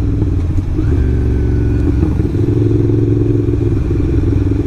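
Ducati Monster's V-twin engine running at a steady pace while riding, an even drone without revving.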